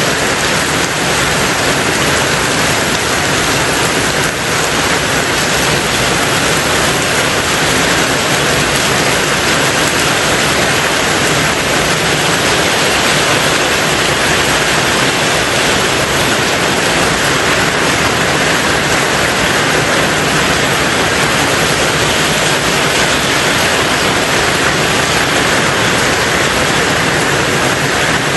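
Rain falling steadily on a tin roof, a dense, even hiss with no distinct drops or pauses.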